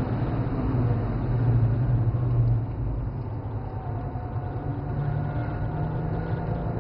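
BMW 135i's twin-turbo straight-six, heard inside the cabin, with road and wind rumble under hard braking from about 170 km/h. The rumble drops off partway through as the car slows into the corner. A steadier engine tone then rises slowly as the throttle comes back on.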